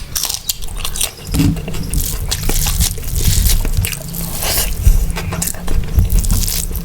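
Close-miked eating: mutton biryani and mutton curry being chewed and bitten, with wet smacking and crunching and irregular sharp clicks.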